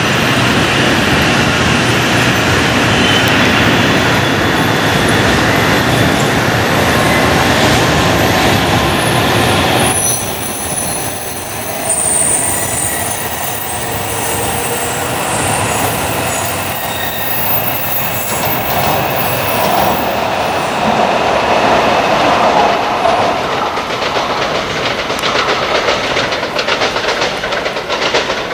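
N700-series Shinkansen train running on slab track: a loud, steady rush of wheels and cars that drops suddenly about ten seconds in. What follows is a quieter rumble with faint high-pitched wheel squeals as the train runs around the curved station track.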